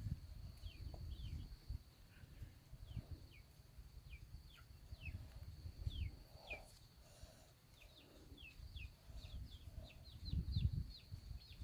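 Birds chirping in many short, falling notes that come faster near the end, over a steady high-pitched whine and a low rumble.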